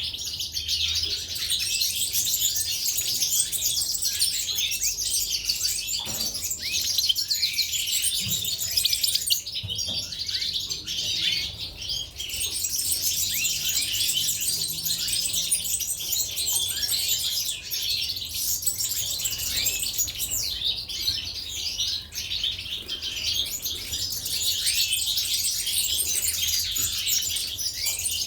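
Goldfinches and canaries chirping and singing together, a dense, continuous twitter of many small songbirds. A few faint knocks come a quarter of the way in.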